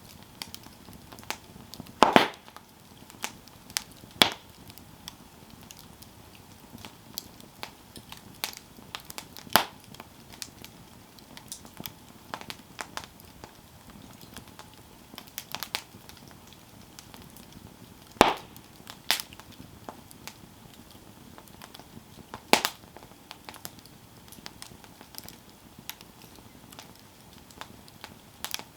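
Campfire burning, with irregular wood crackles and sharp snaps over a low steady hiss; the loudest pops come about 2, 4, 10, 18 and 22 seconds in.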